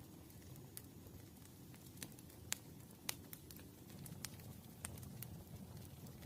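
Campfire burning quietly, a low steady rumble with irregular sharp crackles and pops of the wood, a few louder ones around the middle.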